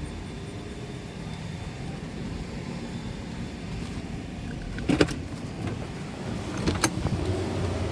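Tunnel car wash machinery running with a low steady rumble, broken by a sharp knock about five seconds in and another shortly before the end.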